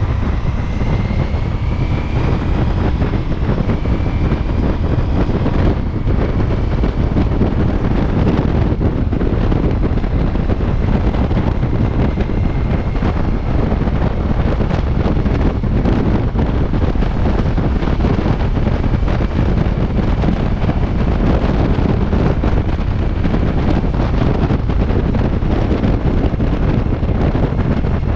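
Wind rushing over the microphone of a Ducati Multistrada V4S while it is ridden at speed, with the bike's V4 engine running steadily underneath. A faint rising whine comes in the first few seconds.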